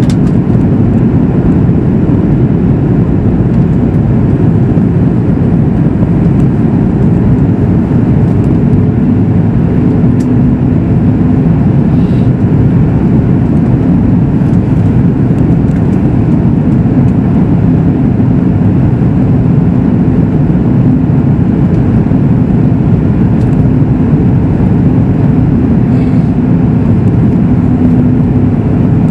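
Steady cabin noise of a Boeing 737 MAX 8 in flight: a loud, even, low rumble of engines and airflow heard from inside the passenger cabin.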